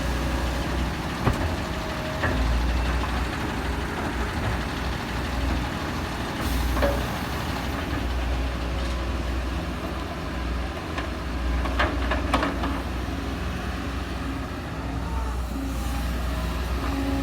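Diesel engine of heavy earth-moving machinery running steadily, with a few sharp metallic clanks.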